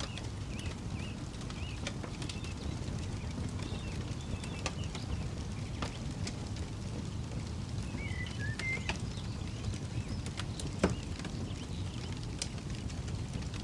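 Campfire crackling with scattered pops, one louder sharp pop late on, over a steady low rumble. Birds chirp intermittently in the background.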